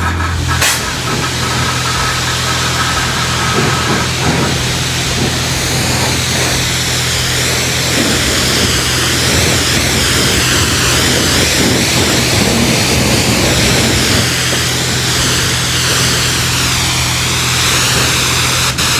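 High-pressure spray wand of a self-serve car wash rinsing a truck: a steady, shifting hiss of water spray over the constant hum of the pump.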